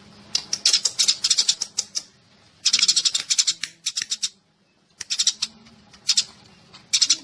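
Sparrows chirping in fast bouts of high, clipped chatter, five bouts with short pauses between them: a sparrow call recording used as a decoy to lure birds into a trap.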